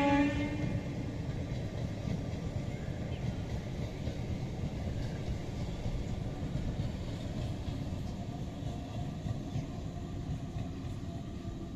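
Electric multiple-unit local train running past with a steady rumble of wheels on the track, slowly growing quieter. A horn note cuts off just as it begins.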